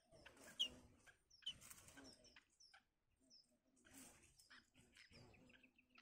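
Faint short bird chirps with several soft rustling bursts at a yellow bittern's nest, as the adult moves over its newly hatched chicks among the twigs.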